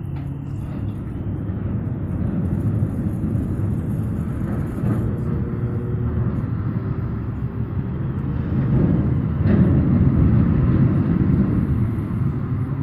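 A steady low engine rumble, which grows louder about eight seconds in.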